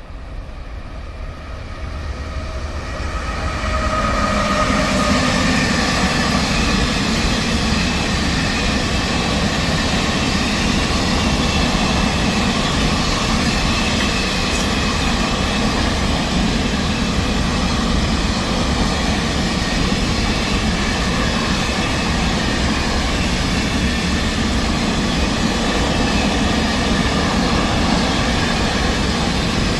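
Train passing on the track, its noise building over the first few seconds and then holding steady.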